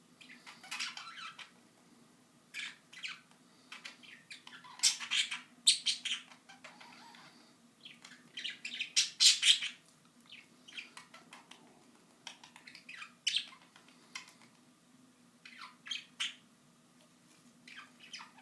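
Pet budgerigars chirping and squawking in irregular bursts of short, high calls, loudest around five and nine seconds in. A steady faint low hum runs underneath.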